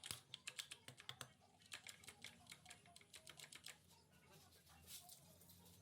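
Faint, irregular light clicks and taps, several a second, thinning out over the last second or so.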